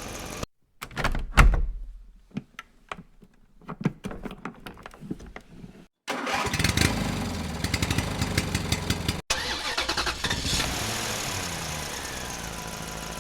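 Cartoon sound effects: a scatter of clicks and knocks with one heavy thump about a second in, then a vehicle engine starting and running steadily for the second half.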